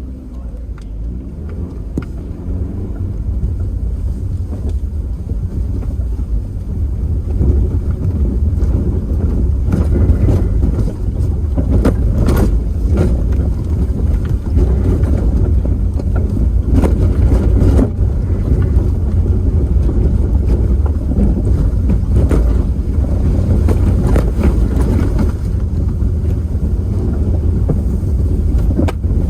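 Heavy wind buffeting the microphone over a low rumble, with scattered knocks and rattles, as from a camera moving at speed over rough ground. It builds over the first several seconds and then holds steady.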